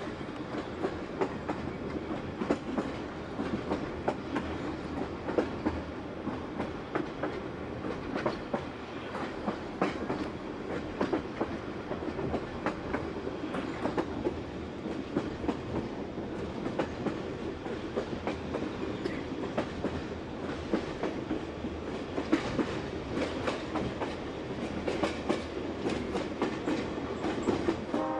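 Train rolling along, heard from inside a carriage: a steady rumble with the wheels clicking irregularly over rail joints.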